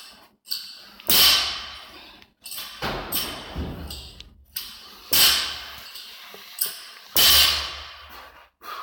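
An athlete breathing hard during a workout: three loud, forceful exhales about a second, five seconds and seven seconds in, with thuds and weaker breaths between.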